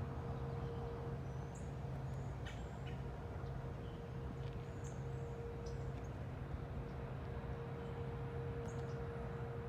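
Steady machine hum, likely from the whirring factory across from the park, with a low drone and a higher tone held throughout. Birds chirp in short calls scattered over it.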